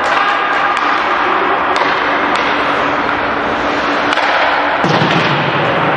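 Ice hockey game sounds in a rink: a steady wash of noise broken by several sharp clacks and knocks from sticks, puck and boards.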